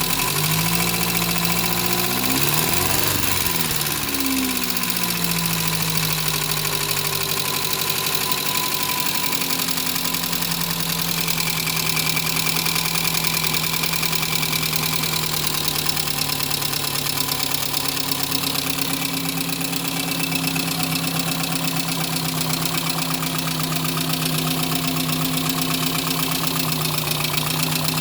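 Talbot Horizon 1.1's Simca Poissy four-cylinder engine running: revved once briefly about two seconds in, then settling back to a steady idle.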